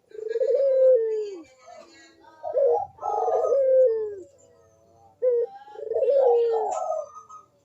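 Puter dove (Barbary dove) cooing its loud 'kuk-deruk' song in three phrases, each ending on a note that slides down in pitch.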